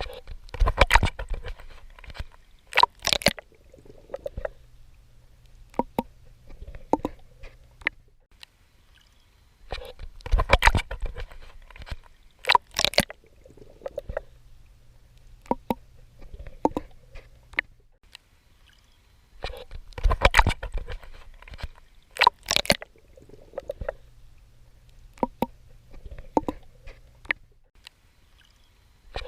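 Swimming strokes in water: loud splashes in clusters, then quieter sloshing and bubbling over a low hum, the whole cycle repeating about every ten seconds.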